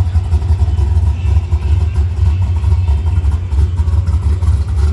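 Car engine idling with a deep, steady low rumble.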